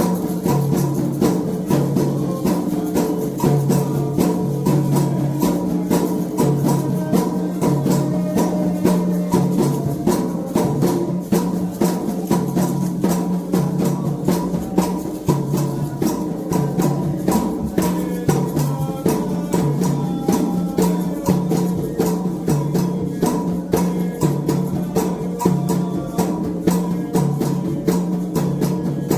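Candomblé ritual drumming: atabaque hand drums with a struck metal bell (agogô) keeping a steady, dense rhythm throughout.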